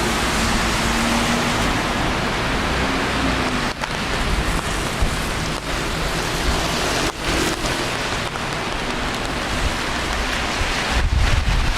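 Steady rain falling, an even hiss with a low rumble of traffic underneath.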